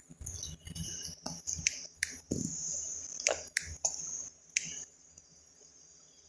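Typing: a run of irregular key clicks that stops about five seconds in, over a faint steady high-pitched whine.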